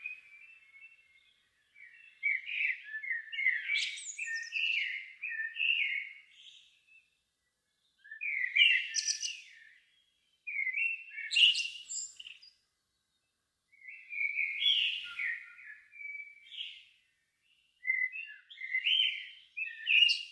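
A songbird singing a run of varied warbled phrases, each one to five seconds long, with short pauses between them.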